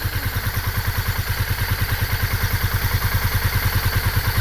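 Yamaha Sniper 150's single-cylinder four-stroke engine idling with an even, steady beat, just after a tune-up. Its ignition timing is not yet quite right, but it keeps running without stalling.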